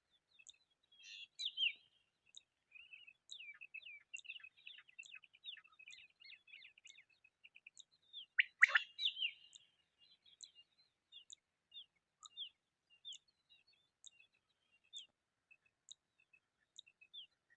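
Quail calling: a busy run of short high chirps, loudest in a burst about halfway through, then spaced-out falling chirps. A faint high tick repeats about twice a second.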